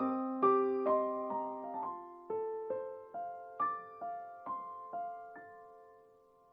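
Background music of a solo piano playing gentle single notes and chords, slowing down and fading away near the end.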